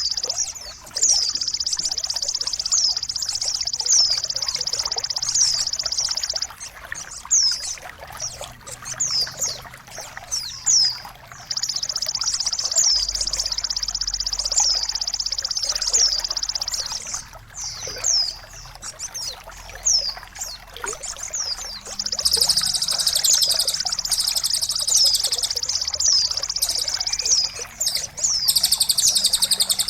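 Songbird recording for masteran: long stretches of a high, rapid buzzing trill that stop and start again several times, with sharp downward-sweeping chirps about once a second, over trickling water.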